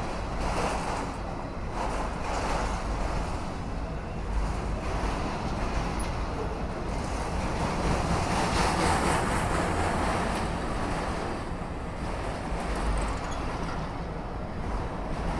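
CSX freight train of autorack cars rolling past at a grade crossing: a steady noise of steel wheels on rail, swelling a little midway.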